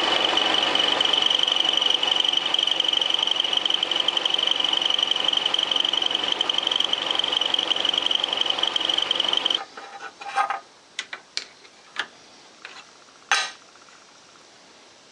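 Lathe-driven milling cutter taking a cut in metal: a steady, loud machining sound with a high-pitched whine over the motor's hum, from a cutter the owner says is dull. It cuts off suddenly about nine and a half seconds in, followed by a few sharp clicks and knocks.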